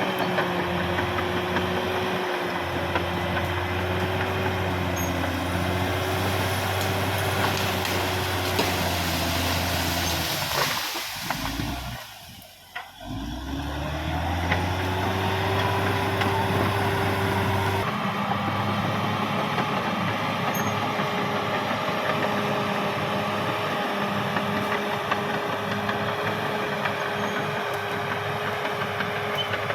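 Caterpillar D6R XL bulldozer's diesel engine running steadily at work, its note dropping away briefly for a second or two about two-fifths of the way in, then picking back up.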